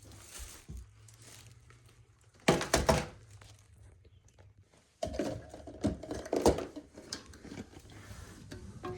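Clattering knocks and rustling of objects being handled, in a short burst about two and a half seconds in and again more steadily from five seconds on, over a faint low hum.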